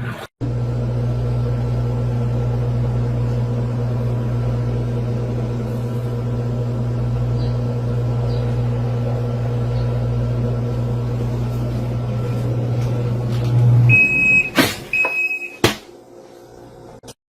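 Portable washing machine's motor running with a steady hum. Near the end it stops, followed by two short electronic beeps and a couple of knocks.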